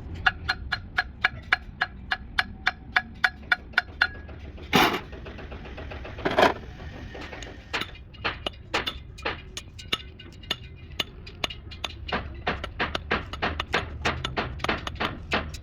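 Metal tapped against metal with hand tools: a run of ringing taps about two or three a second, two short noisy bursts around the middle, then quicker, irregular tapping.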